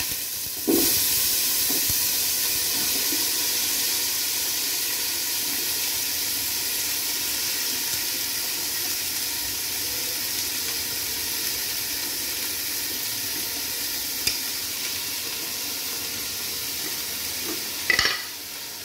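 Sliced onions and green peppers sizzling in hot oil in an aluminium pot: a steady frying hiss that starts sharply about a second in and slowly fades. A brief clatter comes near the end.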